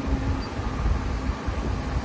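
A car running: a steady, uneven low rumble with a hiss over it.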